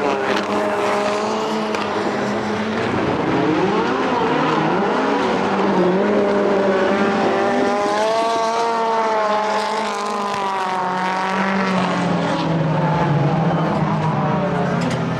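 World Rallycross Supercars' turbocharged four-cylinder engines racing on track, more than one car at once. Their pitch rises and falls continuously with throttle and gearchanges.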